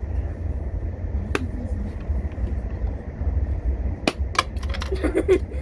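Steady low rumble of a moving train heard from inside the carriage, with a few sharp clicks and knocks, coming in a quick cluster near the end.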